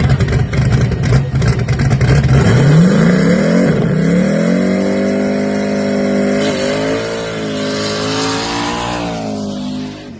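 Drag racing car launching and accelerating hard down the strip. The engine starts rough and crackly, then its pitch rises steeply, dips once at a gear change and climbs again. It holds high, then sinks a little and fades as the car pulls away.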